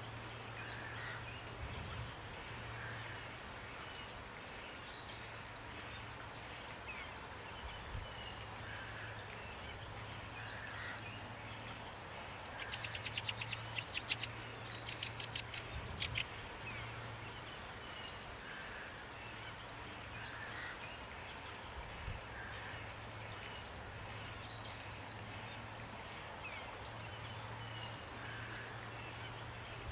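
Several songbirds chirping and whistling over a steady hiss of light rain, with one bird's loud, rapid trill about halfway through. A low hum comes and goes underneath.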